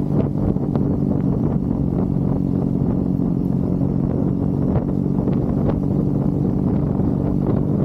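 Triumph Bonneville's parallel-twin engine running at a steady cruising speed, its pitch holding nearly even.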